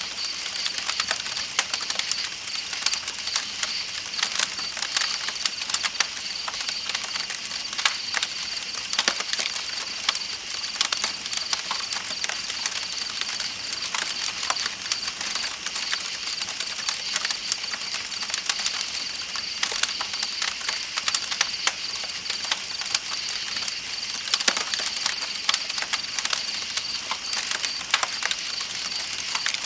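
Campfire crackling with many small sharp pops, over the steady rush of a flowing river and a continuous high chirping of night insects.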